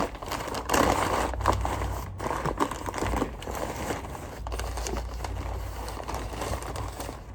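Irregular rustling, crinkling and clicking of vacuum cleaner parts being handled as the vacuum is put back together, over a faint steady low hum.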